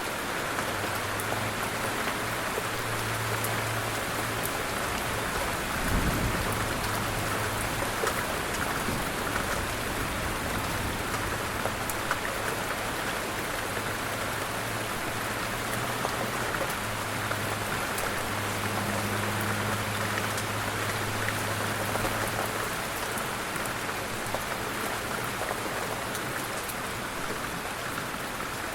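Steady light rain falling, an even hiss dotted with the ticks of individual drops. A low hum comes and goes underneath, and there is a single low thump about six seconds in.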